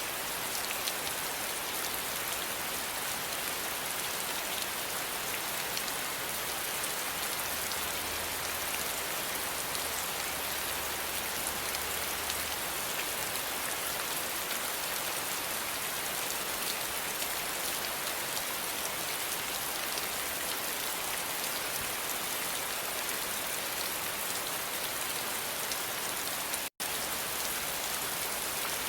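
Steady rain falling, an even hiss of many drops on surfaces that holds constant, with a split-second dropout to silence near the end.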